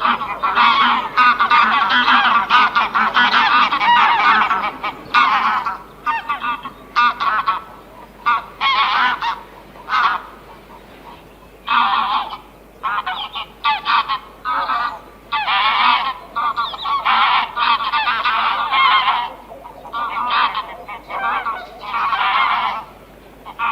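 A flock of large birds honking, many calls overlapping at first, then coming in short bouts of repeated honks.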